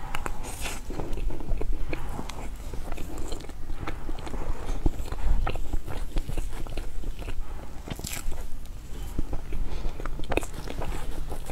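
Close-miked chewing and mouth sounds of a person eating soft matcha chestnut cream cake from a spoon, with many irregular small clicks and smacks.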